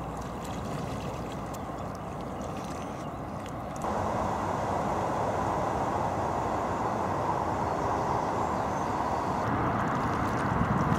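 Steady wind noise on the microphone outdoors, which gets suddenly louder about four seconds in.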